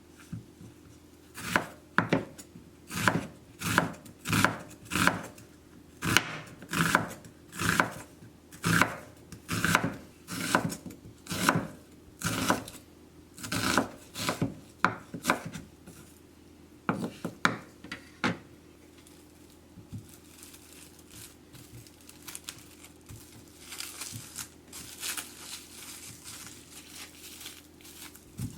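Kitchen knife chopping on a wooden cutting board, a steady run of strokes a little under two a second that thins out about halfway, followed by softer rustling and scraping near the end.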